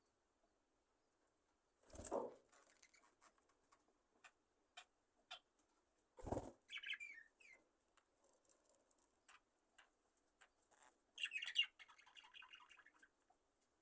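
Budgerigars at roost, mostly quiet: scattered tiny clicks and scratches, two brief rustles about two and six seconds in, and short soft chirps and warbles just after the second rustle and again near the end.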